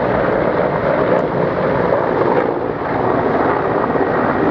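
Mil Mi-171 and Mi-35 helicopters' turbines and rotors running steadily, a dense, even drone with a faint low hum beneath.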